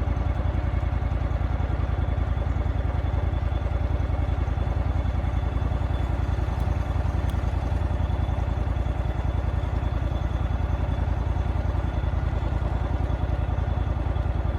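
An engine running steadily at low speed, with an even, fast pulse to it.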